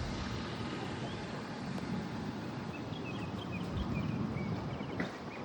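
Wind rumbling and buffeting on the microphone, with a scatter of short, high bird chirps over it.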